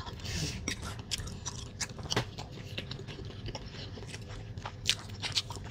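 Close-miked chewing of a mouthful of rice and fried egg with minced pork, with many short mouth clicks and smacks spread through the chewing.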